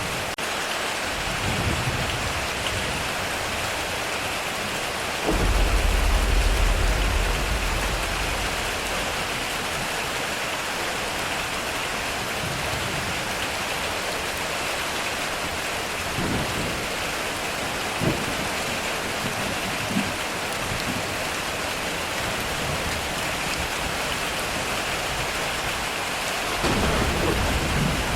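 Heavy rain pouring steadily on a metal roof, with a deep roll of thunder about five seconds in lasting a few seconds and another starting near the end. Two sharp taps stand out from the rain midway.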